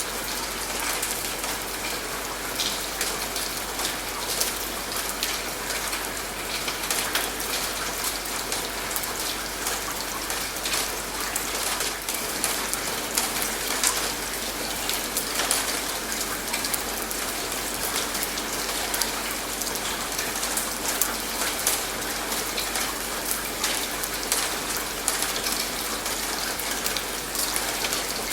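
Steady rain: an even hiss dotted with many sharp drop ticks.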